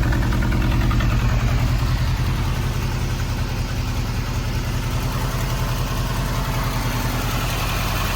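Mercedes 190SL's four-cylinder engine idling steadily while still warming up after a cold start, getting slightly quieter about two seconds in.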